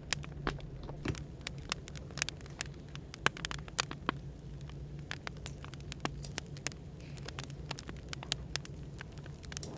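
Burning firewood crackling, with irregular sharp pops several times a second over a steady low hum of background white noise.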